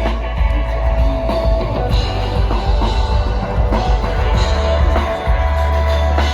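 Rock band playing an instrumental stretch: drum kit and guitar over a heavy bass line, with no singing.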